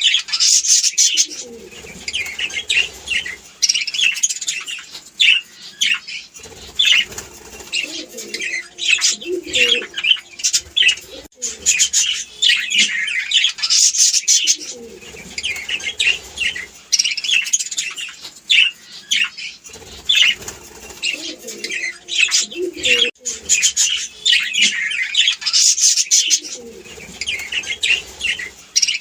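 Budgerigars chattering: a busy stream of fast, high chirps and warbles, with lower warbling notes now and then.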